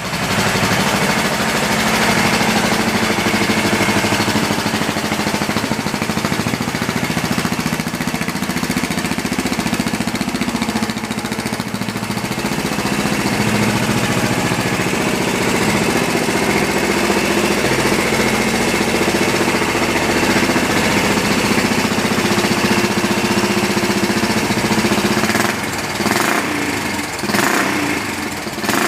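Yamaha SR400's air-cooled single-cylinder four-stroke engine idling steadily, then blipped with the throttle a few times near the end.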